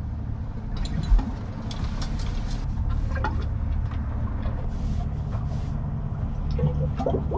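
Sailboat's engine running steadily, a low rumble, with a sharp knock about a second in.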